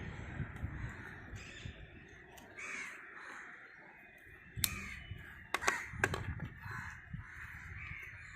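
Repeated bird calls over a low background rumble, with a few sharp clicks and knocks near the middle.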